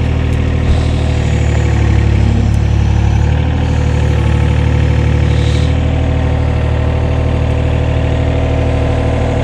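Engine idling steadily, a low even running sound with a slight change in tone about three and a half seconds in.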